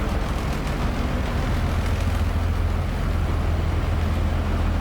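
A houseboat's engine drones steadily and loudly under a rushing noise.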